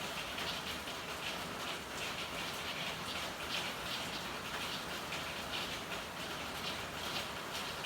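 Steady rain falling, with a dense, irregular patter of drops splashing on hard surfaces.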